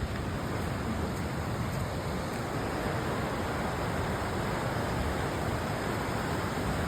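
Fast-flowing river water rushing steadily, growing slightly louder toward the end.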